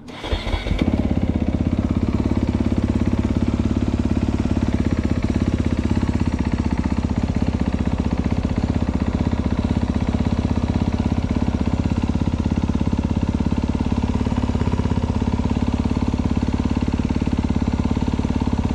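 2022 Honda CRF250R's single-cylinder four-stroke engine firing up in the first second and then idling steadily as it warms up from cold.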